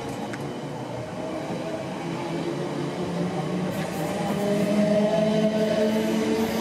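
South West Trains electric multiple unit running alongside the platform, its motors giving a steady whine over the wheel and running noise. The whine grows louder and rises a little in pitch in the second half.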